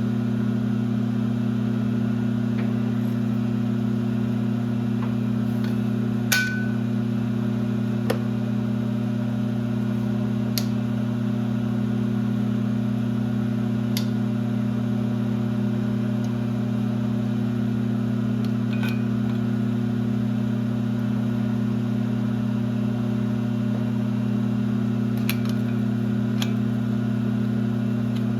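1966 LeBlond geared-head lathe running with a steady hum, while a welded-up wheel hub is turned and bored back to size. A handful of sharp clicks sound at irregular intervals, a few with a short ring.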